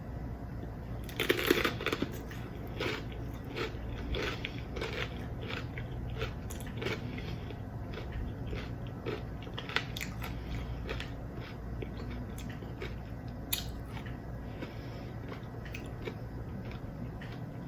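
Biting into a jalapeño pepper stuffed with cream cheese and Takis rolled tortilla chips: a loud crunch about a second in, then crunchy chewing that grows sparser.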